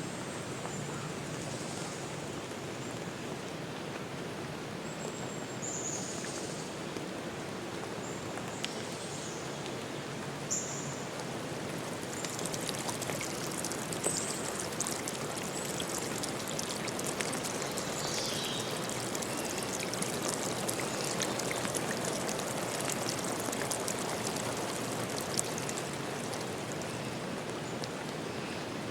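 Steady rush of running water with rain pattering, the patter growing denser about halfway through, and a few short, high bird chirps over it.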